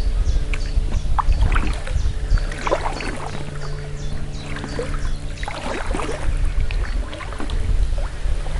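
Paddling an inflatable canoe: irregular paddle splashes and drips over a steady low drone and heavy wind rumble on the microphone.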